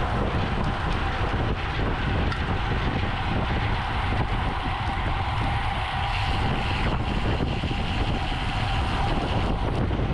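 Wind buffeting the microphone of a camera riding along with a road bicycle at race speed, over steady tyre and road noise.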